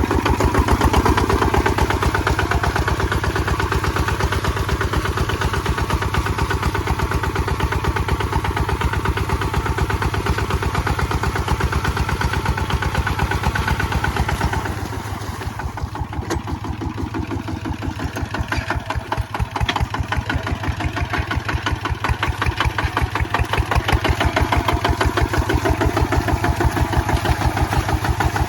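Kubota ZT155 single-cylinder diesel engine running with a rapid, even chugging beat. It drops in level about halfway through, then builds back up over the next several seconds.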